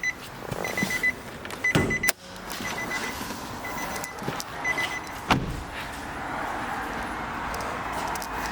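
A Nissan Qashqai's warning chime beeps in quick clusters of short, high beeps, repeated about once a second. Several clunks sound meanwhile, and a single sharp thump comes about five seconds in, after which the beeping stops and only a steady low noise remains.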